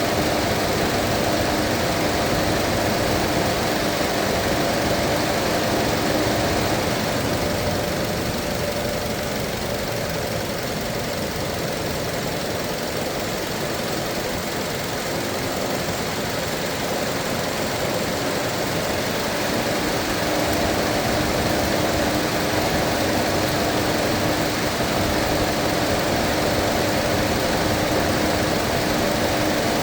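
Mazda 2.5 engine idling steadily while its cooling system is bled of air. A steady hum in the engine noise fades for several seconds in the middle and then returns.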